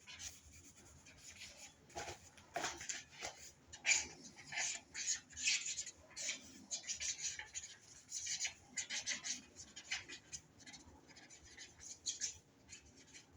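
Quick, irregular strokes of a drawing tool scratching and rubbing on paper, faint, with many short strokes in a row.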